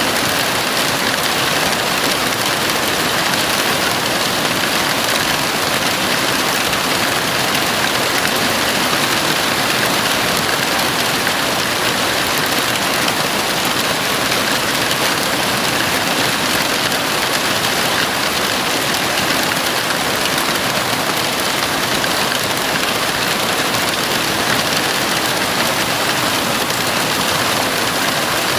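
Heavy rain falling steadily on a house roof, a dense, even hiss with no breaks.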